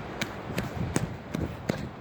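Quick footsteps of a person hurrying along a forest trail, a little under three steps a second.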